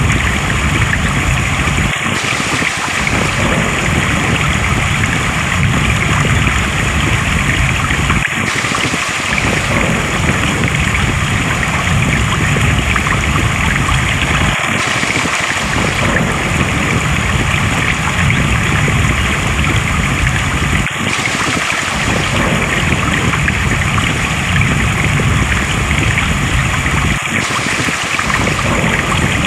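Flowing water rushing steadily, with a brief dip in the low rumble repeating about every six seconds, as in a short looped recording.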